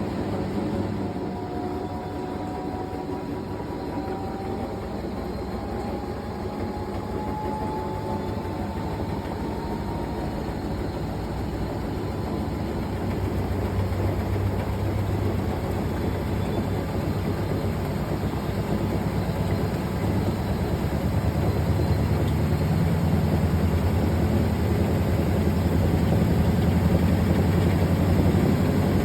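Fisher & Paykel GW712 top-loading washing machine spinning up: a faint whine rises in pitch over the first several seconds while a steady low rumble grows gradually louder.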